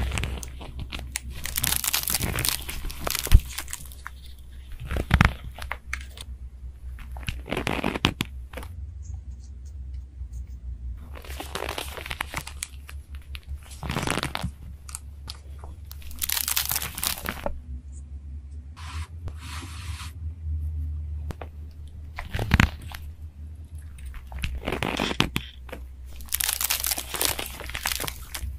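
Tape-covered paper crinkling and tearing as fingers squeeze and peel small layered paper pieces, in separate crackly bursts every few seconds, over a low steady hum.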